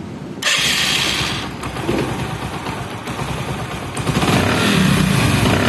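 Bajaj Discover motorcycle's single-cylinder engine running with a fast, clattery beat, growing louder about four seconds in. It cuts in abruptly about half a second in.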